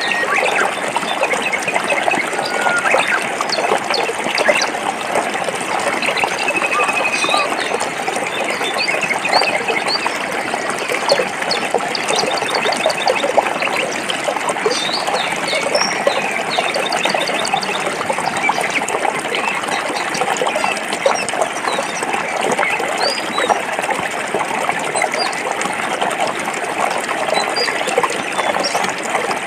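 Stream water flowing and splashing over rocks, a steady rushing babble, with small bird chirps and calls heard now and then above it.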